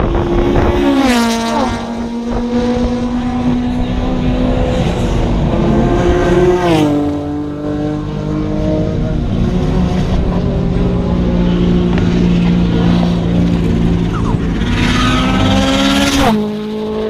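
Race cars' engines at high revs passing by, each one's pitch dropping sharply as it goes past: once about a second in, again about seven seconds in, and again near the end, with engine sound carrying on between passes.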